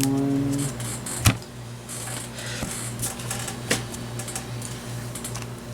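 Trading cards being handled and set down on a tabletop: one sharp tap about a second in, then scattered lighter clicks and taps, over a steady low hum.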